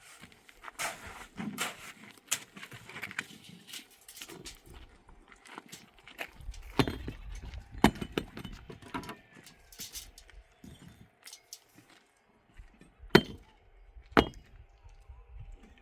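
Irregular clinks and knocks of hard objects, with a few sharper, louder knocks spread through it.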